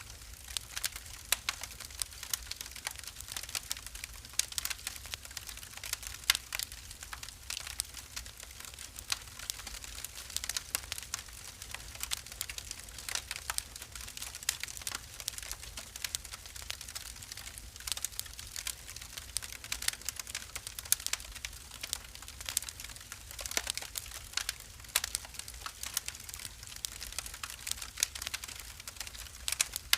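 Wood fire crackling in a fireplace: frequent irregular sharp snaps and pops over a low steady rumble.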